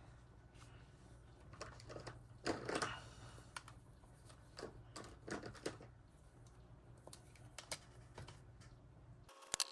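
Soft scattered clicks and paper rustles from handling paper money and an envelope, over a low steady hum that cuts off abruptly near the end.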